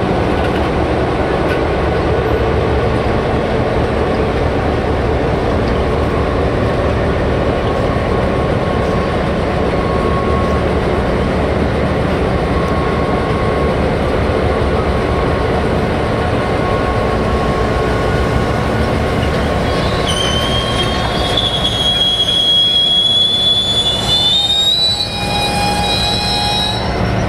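Diesel-hauled container freight train passing slowly, with S-class and CM-class diesel-electric locomotives running under load over a steady rumble of wheels on rail. From about twenty seconds in, a high wheel-flange squeal rises a little in pitch as the train takes the curve into the siding.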